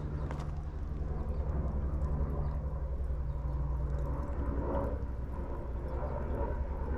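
Wood pellets burning in a small camp wood stove: a steady low roar with scattered faint crackles.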